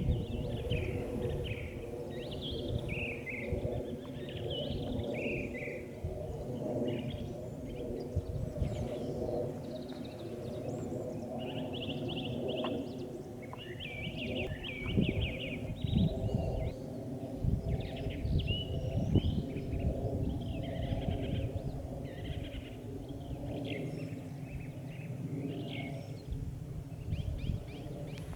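Songbirds calling and singing in short chirping phrases throughout, over a steady low hum of several held tones and a gusty rumble of wind on the microphone.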